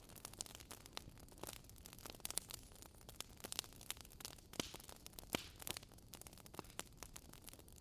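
Wood fire burning in a fireplace: a faint steady hiss with frequent small, irregular crackles and pops from the logs.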